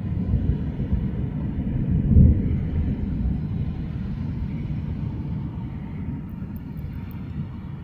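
Thunder rumbling, swelling to a loud peak about two seconds in and then slowly dying away.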